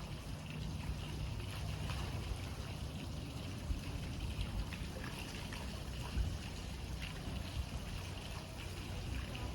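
Water rushing and trickling into a canal lock as it fills, a steady churning wash over a low steady hum.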